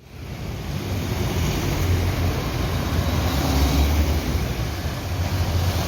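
Vehicle engine running with road noise: a steady low rumble under an even hiss.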